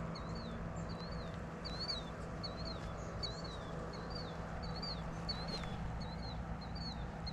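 A bird repeating a short, high chirping note at an even pace, about one and a half to two times a second.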